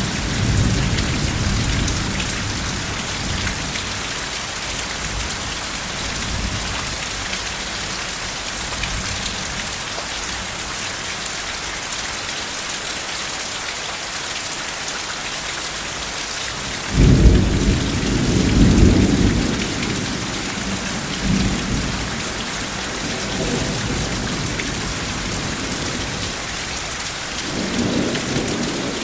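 Steady heavy rain with rolls of thunder: a low rumble at the start, a sudden louder clap and rumble a little past the middle lasting a few seconds, and fainter rumbles near the end.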